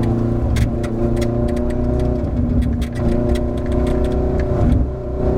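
Ferrari F430 GT race car's V8 engine running at a fairly steady pitch, with its note dropping and settling at a new pitch a few times (about two, three and five seconds in), mixed with sharp clicks and clunks.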